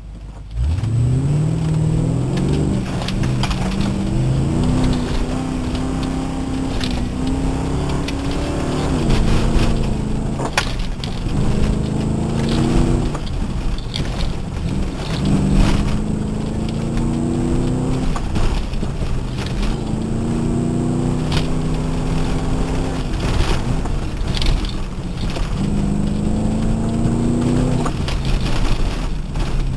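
A 1997 Ford Thunderbird's engine, heard from inside the cabin during an autocross run. It pulls hard from the start about half a second in, then rises and falls in pitch again and again as the car accelerates and slows between the cones. Brief sharp knocks come through here and there.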